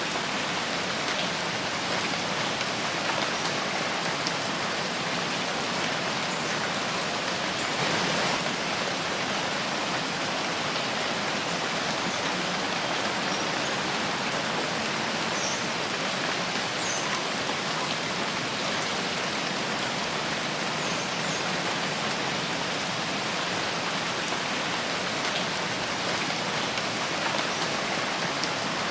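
Steady rain falling in a forest, an even hiss of many drops with a brief louder gust of rain about eight seconds in.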